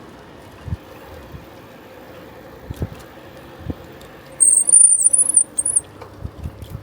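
Bicycle brakes squealing: a high, slightly wavering squeal lasting about a second and a half, starting midway. Under it runs a steady rumble from the ride, with a few short low thumps.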